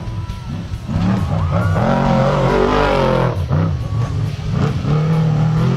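Off-road race truck's engine revving hard as it passes, its pitch rising and falling and loudest in the middle, with music underneath.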